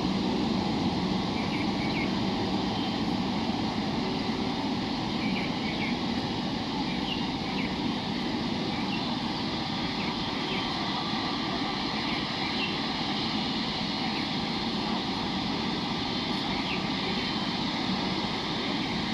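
Boeing 777-300ER's GE90 turbofan engines running steadily at low power as the airliner taxis to its parking stand, an even, unbroken rumble and hiss.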